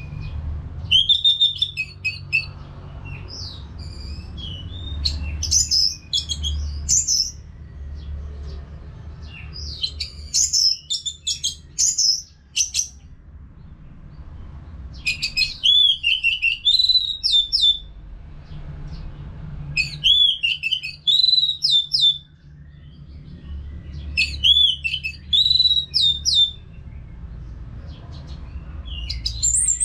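Orange-headed thrush singing: phrases of varied, quick whistled notes, each two to three seconds long and repeated about every four to five seconds, over a low steady hum.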